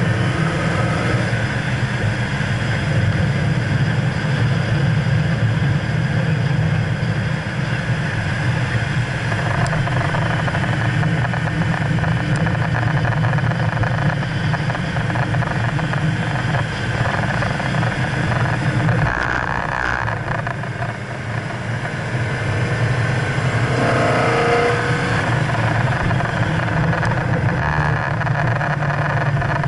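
2011 BMW E92 M3's V8 engine running at speed on a track lap. The engine note dips briefly about two-thirds of the way through, then picks up again.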